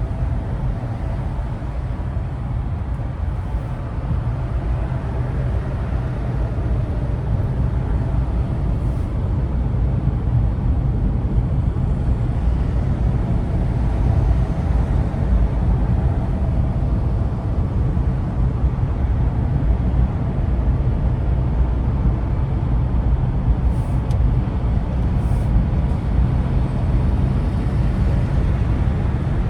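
Steady low rumble of a vehicle's engine and road noise while driving in slow traffic, growing a little louder about a third of the way through.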